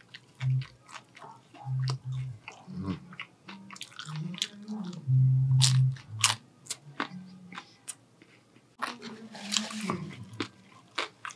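Close-miked eating: crunching bites and chewing of crispy fried fast food, a taco shell among it. About nine seconds in, a paper napkin rustles as hands are wiped.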